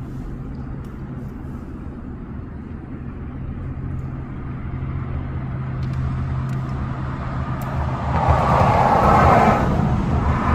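Motor vehicle engine idling with a steady low hum. A louder rushing noise swells about eight seconds in and eases off near the end.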